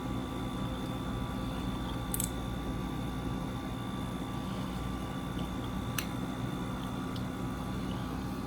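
Window air conditioner running: a steady fan and compressor hum with a thin high whine, broken by two sharp clicks about two and six seconds in.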